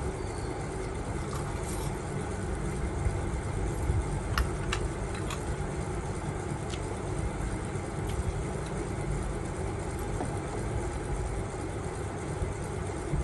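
Steady low rumbling background noise, with a few light clicks about four to five seconds in.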